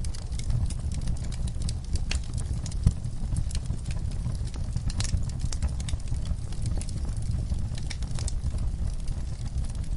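Logs burning in a fireplace, crackling with frequent sharp pops over a steady low rumble of flame; one louder pop about three seconds in.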